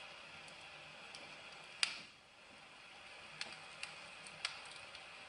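A few faint, irregular clicks over a low hiss, the loudest about two seconds in.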